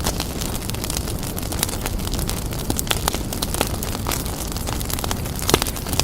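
Wood fire burning in a fireplace, a steady low rumble of flames with frequent sharp crackles and pops at irregular intervals, a couple of louder pops near the end.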